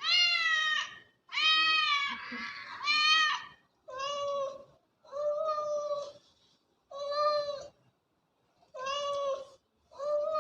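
A cat meowing over and over, about eight meows each under a second long. The first few are louder and rise and fall in pitch; the later ones are softer and held on a steadier note.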